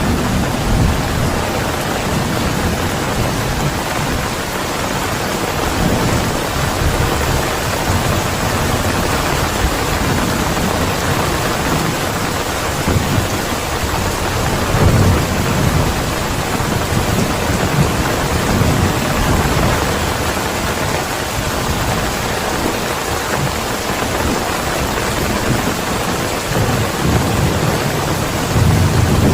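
Steady heavy rainfall, with low rolling thunder rumbling now and then underneath it.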